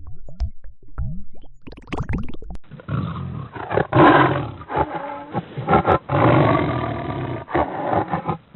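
Lion roaring: a series of loud rough roars broken by short pauses, starting a couple of seconds in after a run of short quick gliding calls from another animal.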